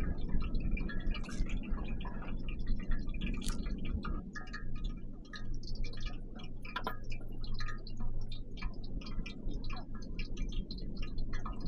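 Irregular small clicks and ticks over a low, steady rumble.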